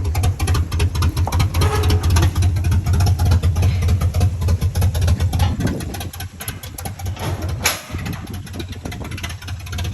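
Truck engine with a lope cam tune running with a rough, rapid pulsing exhaust, easing off about six seconds in; it runs poorly, which the owner puts down to bad injectors. A sharp click near the end.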